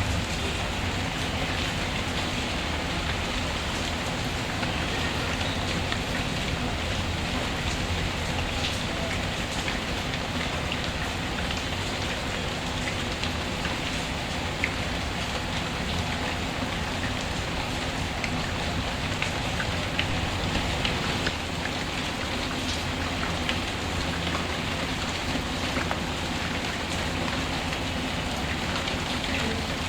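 Steady rain falling, with a low rumble under it and occasional sharp crackles from a wood fire in a fireplace.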